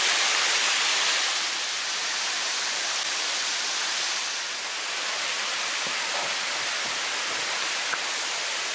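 Rushing water of a mountain stream running over rocks, a steady even noise, a little louder for the first second or so and then slightly softer.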